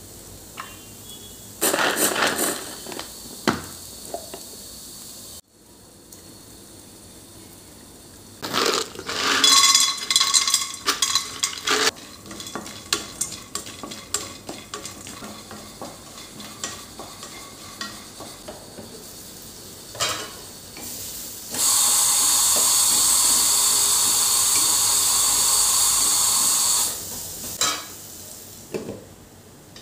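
Home cooking in the kitchen: metal utensils clinking, clattering and stirring against pots. Past the middle, a loud, steady sizzling hiss lasts about five seconds and then stops.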